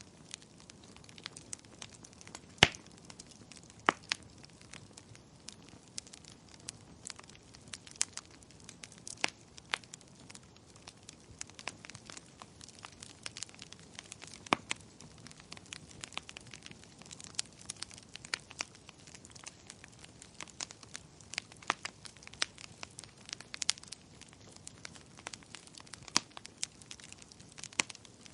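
Wood fire crackling in a fireplace: irregular sharp pops and snaps over a soft steady hiss, with two louder pops a few seconds in.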